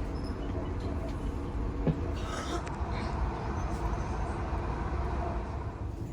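Steady low rumble of a passenger train running smoothly, heard from inside the carriage, with one sharp knock about two seconds in.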